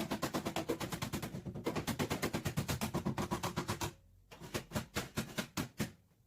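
Rapid, steady tapping on car body sheet metal, about nine or ten blows a second, stopping briefly twice, as the damaged back panel is worked out.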